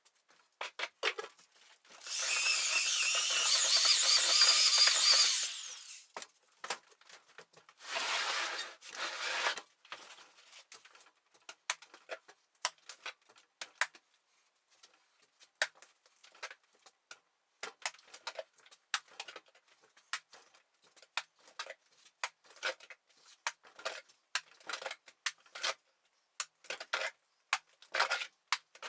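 A power drill runs for about three and a half seconds, then again more briefly a few seconds later. The rest is irregular short scrapes and taps of hand plastering work.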